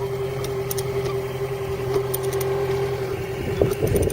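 A boat's engine running steadily, a constant hum, with faint scattered clicks over it.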